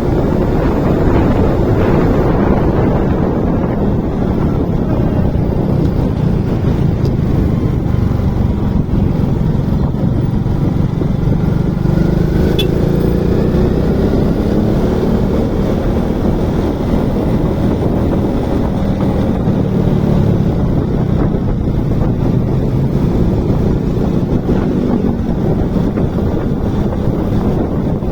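Motorcycle riding at speed: wind rushing over the microphone, with the bike's engine running underneath in a steady, unbroken roar.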